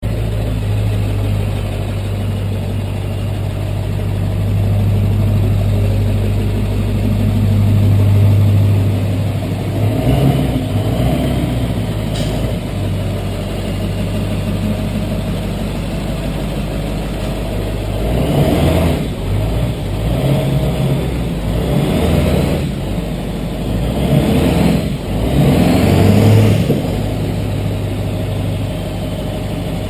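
Truck engine fitted with 250/200 aftermarket injectors, fully warmed up and idling steadily. After about ten seconds it becomes uneven, with several short revs in the second half, then settles back to idle near the end.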